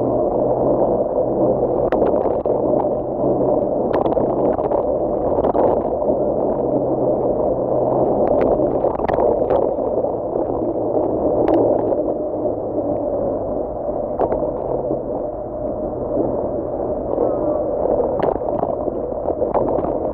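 Kugoo electric scooter ridden on a wet road: a steady rush of tyre spray and wind, with a low hum and scattered small clicks and knocks.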